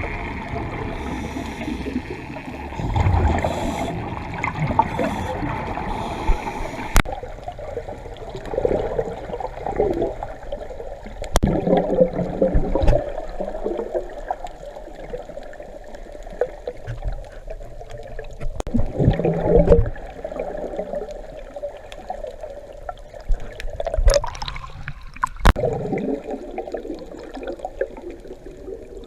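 Underwater gurgling of a scuba diver's exhaled bubbles, coming in bursts every several seconds over a steady watery hiss, with a few sharp clicks.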